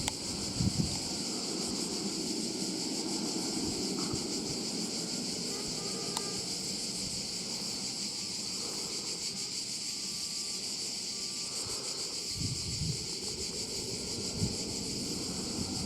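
Wind buffeting the microphone, with a few stronger gusts near the end, over a steady high-pitched buzz.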